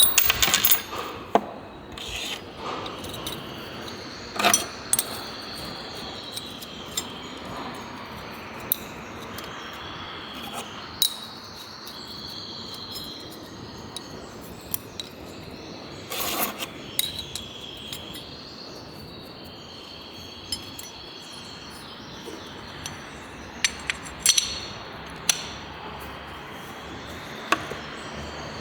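Hand tools and small engine parts clinking and knocking at irregular intervals during engine work, a few strikes much louder than the rest. A steady high insect chirring, like crickets, runs behind.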